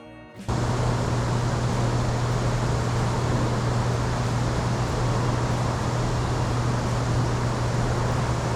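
A boat's motor running steadily under a loud rush of wind and water noise, a low even drone beneath it, starting abruptly about half a second in as the music cuts off.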